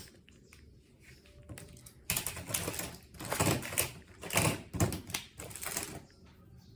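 Close rustling and crinkling in irregular bursts, starting about two seconds in and dying down about a second before the end.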